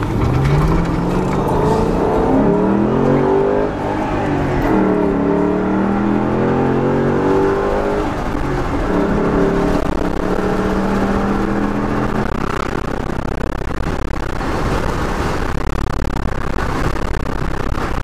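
Car engine pulling away and accelerating: its pitch climbs, drops briefly at a gear change a few seconds in, climbs again, then settles into a steady cruise.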